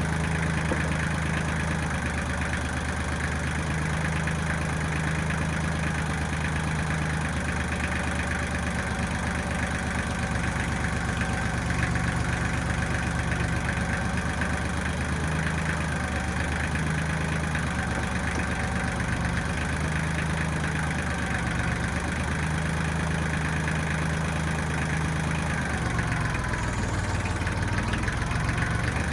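1995 Kubota backhoe's diesel engine running steadily, its note shifting slightly, with a faint wavering whine near the end.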